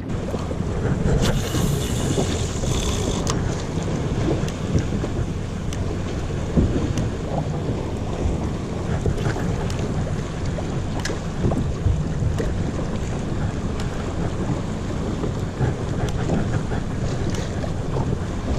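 Small fishing boat on open water: a steady low engine hum with wind buffeting the microphone and water wash, broken by a few short knocks and clicks.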